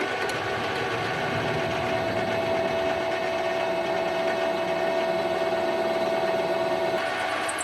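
Metal lathe running with steel stock in the chuck, a steady machine hum with a high whine on top. The whine cuts out about seven seconds in.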